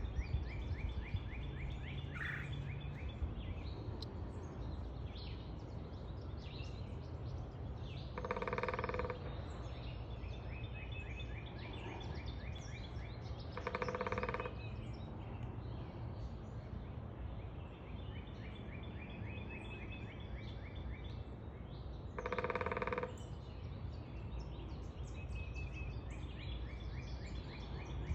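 Woodpecker drumming: three rapid rolls of taps on a resonant surface, each about a second long, about a third of the way in, near the middle and about three-quarters through. Other birds sing trills throughout over a steady low rumble.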